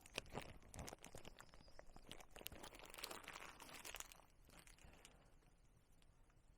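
Faint, irregular crackling and crinkling for about four seconds, then near silence.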